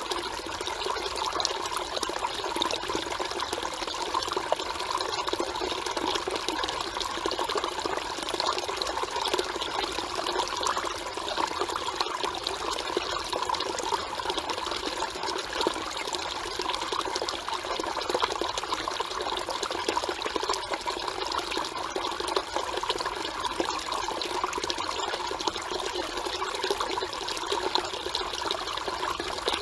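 Mountain valley stream flowing and babbling in a steady, unbroken rush of water.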